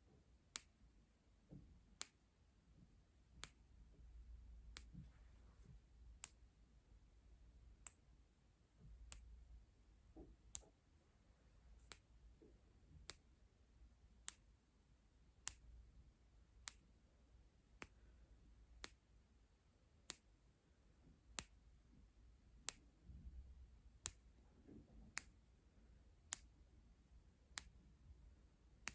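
Sharp, crisp clicks, close and quiet, repeating roughly once a second at a fairly even pace, with a faint low rumble between them.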